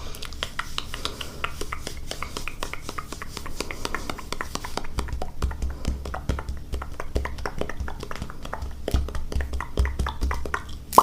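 Mouth sounds: a rapid, continuous run of small clicks and pops, with soft low thumps joining in from about halfway.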